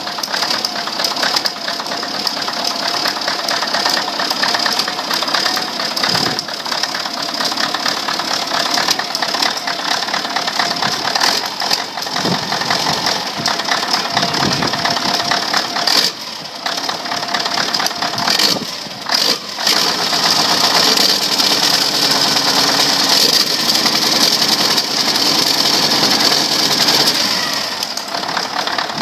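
Caterpillar 3408 V8 diesel engine running with a rough, knocking clatter, freshly started after sitting seven years. Its sound dips briefly a few times past the middle, then runs louder for the last third.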